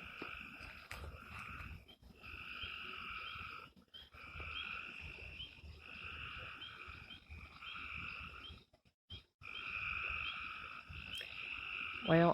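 A chorus of frogs calling: long trills of one to two seconds each, one after another with short gaps between them. The sound cuts out briefly about nine seconds in.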